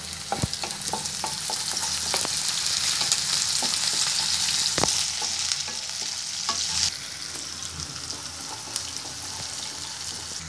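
Chopped onions and green chillies sizzling in hot oil in a nonstick kadai, stirred with a spatula that taps and scrapes against the pan. The sizzle grows louder through the middle and drops back about seven seconds in.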